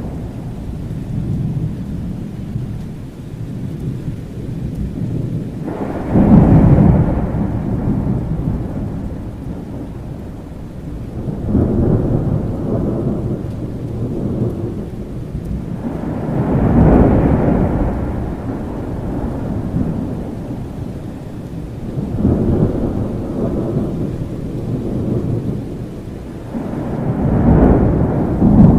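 Thunderstorm: steady rain under repeated low rolls of thunder, a rumble swelling and fading about every five seconds. The first roll, about six seconds in, starts suddenly and is the loudest.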